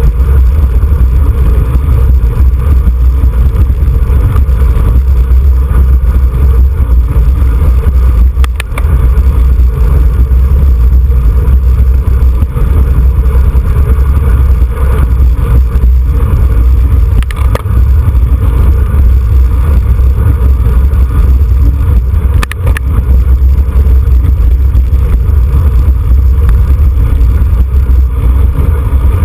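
Wind rushing over the microphone of a cyclist's camera at riding speed: a loud, steady low rumble, broken by three brief clicks.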